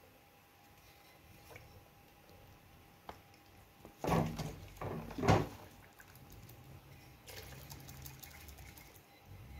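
Liquid splashing and pouring as oil pump parts are washed, with a few louder splashes about four to five and a half seconds in.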